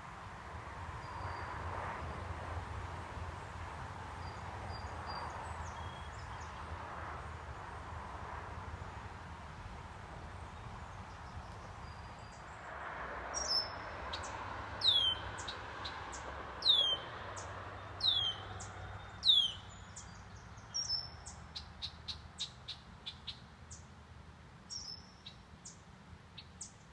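A small songbird calling over steady low background noise. About halfway through come about five sharp whistles, each sliding down in pitch, roughly 1.3 seconds apart, followed by a run of quicker short chips near the end.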